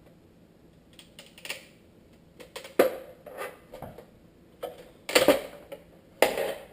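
Irregular clicks and knocks of hard plastic headlight parts as the inner assembly is worked loose from the housing, still held by leftover glue; three sharper knocks stand out, about three, five and six seconds in.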